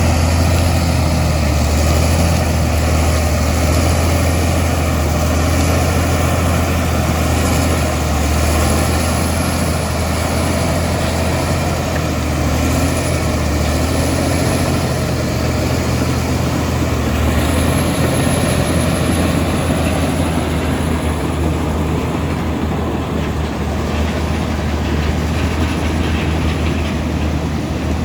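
Komatsu D65E bulldozer's diesel engine running steadily with a strong low drone.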